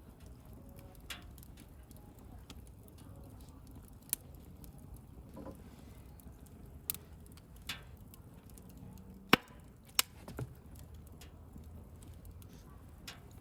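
Wood campfire crackling: scattered sharp pops and snaps over a low, steady noise of burning. The two loudest pops come about nine and ten seconds in.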